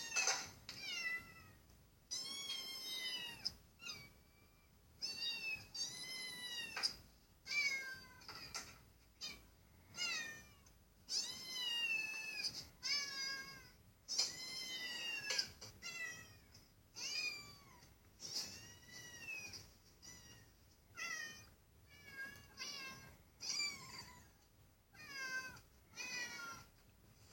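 A domestic cat meowing over and over, with short calls that rise and fall in pitch, coming about one a second.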